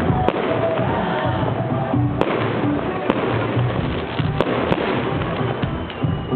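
Fireworks going off, several sharp bangs a second or so apart over a dense, continuous crackle, with music playing alongside.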